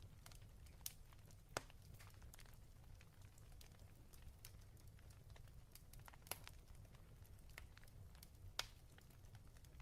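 Faint crackling of a wood fire in a fireplace: many small ticks and a handful of sharper pops, over a low steady rumble.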